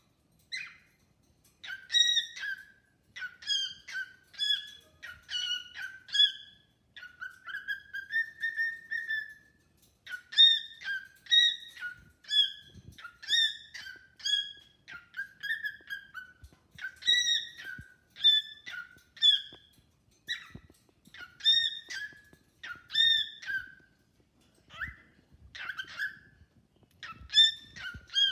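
Cockatiel whistling its song: a long run of short whistled notes, many bending in pitch, in phrases with brief pauses.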